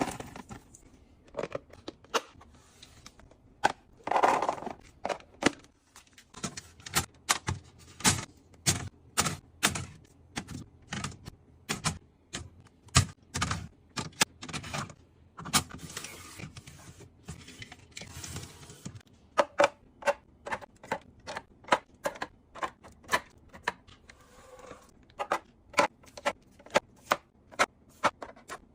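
Many quick clicks and taps of containers and items being handled and set down while a refrigerator is organised, with a few stretches of rustling.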